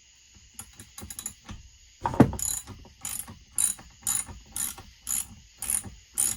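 Hand socket ratchet clicking in short, even strokes about twice a second, working a bolt on a chainsaw, after a sharp knock about two seconds in.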